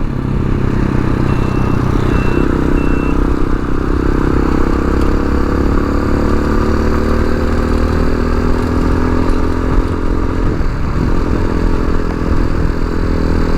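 Tao Tao TBR7 dual-sport motorcycle engine running under way, its note climbing slowly as the bike picks up speed, with steady wind and road rumble. Three short high beeps sound about one to three seconds in.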